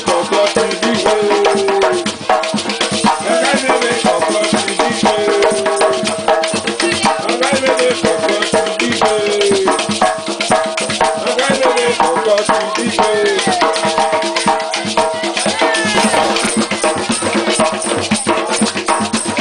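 Traditional Creole drum music played live: hand drums beaten in a quick, steady rhythm with shakers rattling, and voices singing over it.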